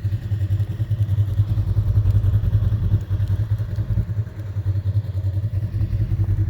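Polaris RZR side-by-side's engine idling steadily, with a fast, even low pulse.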